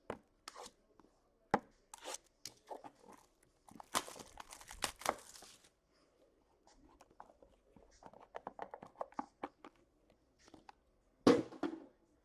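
Packaging of a hockey card box being torn and handled: scattered clicks, a stretch of tearing and crinkling about four seconds in, a run of quick ticks later, and a louder handling noise near the end.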